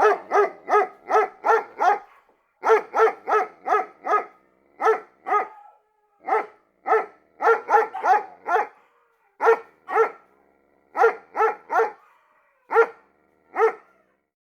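A dog barking repeatedly, a few barks a second in runs of two to seven separated by short pauses. The barks are clear and evenly pitched throughout.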